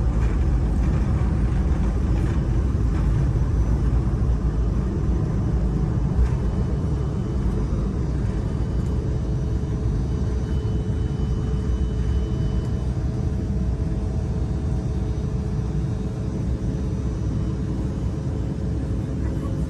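Steady low rumble of a jet airliner heard from inside the cabin while it climbs after takeoff, easing slightly in level.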